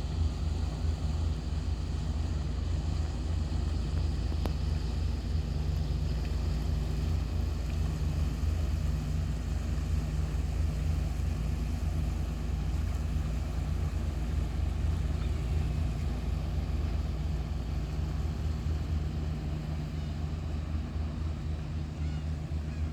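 A fishing boat's engine running steadily, a low even drone that does not change.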